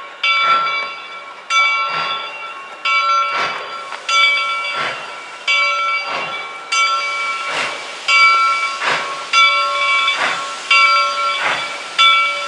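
Steam locomotive 425's bell ringing steadily, about one stroke every 1.3 seconds, with a regular puff of steam hiss between the strokes as the engine works.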